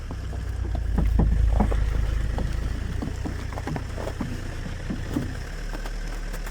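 Tow truck loading a car: a low mechanical drone with scattered knocks and creaks over it. The drone swells about a second in and drops off about five and a half seconds in.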